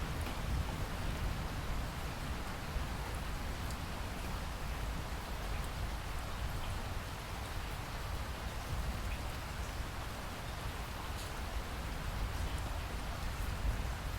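Steady rain falling, with a low rumble underneath and scattered faint drop ticks.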